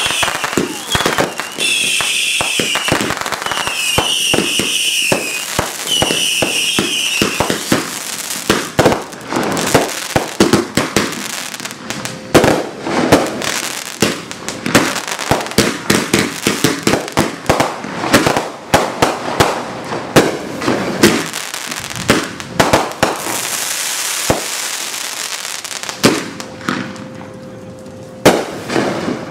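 Backyard consumer aerial fireworks going off: a rapid, irregular string of sharp bangs and crackles, with four high whistling tones of about a second each in the first seven seconds and a stretch of hiss later on. The bangs thin out and grow quieter over the last few seconds.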